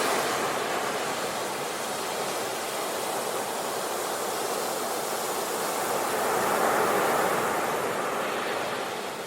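Ocean surf: a steady wash of breaking waves that swells to a peak about two thirds of the way through, then eases off.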